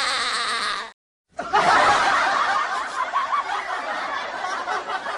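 A wavering tone sliding downward in pitch cuts off about a second in. After a brief gap, a group bursts into laughter and keeps laughing, like a stock sitcom laugh track.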